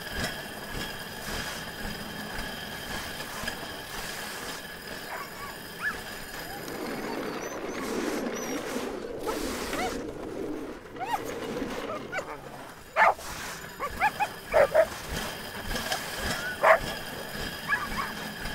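Sled dogs in harness running with a steady hiss of the sled gliding over snow, with several short sharp yips and barks in the last few seconds.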